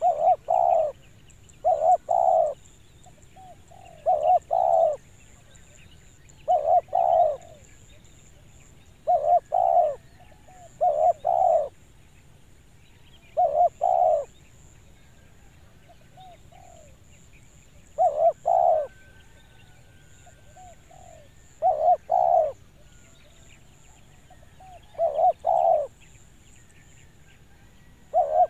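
Spotted dove (tekukur) cooing its clear two-note 'kuk dua' call: a faint short lead-in note, then two loud low coos, repeated about every two to four seconds, eleven times or so.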